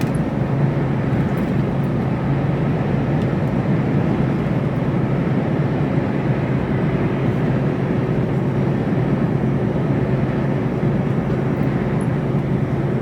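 Mercedes Actros truck heard from inside the cab while driving: a steady engine drone with a constant low hum and road noise.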